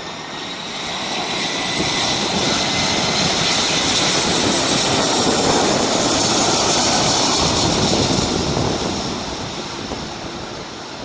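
Jet airliner's engines at close range: a loud rush of engine noise with a steady high fan whine, building over the first few seconds to a peak in the middle and easing off toward the end.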